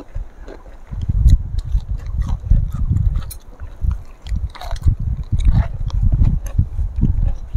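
Close-miked mouth sounds of people eating: chewing and crunching with wet clicks and smacks, a few sharper crunchy bites standing out, over a heavy, uneven low rumble.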